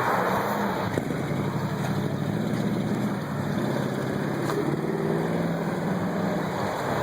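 Car engine running at low speed, a steady low hum whose pitch drifts up and down a little as the car moves.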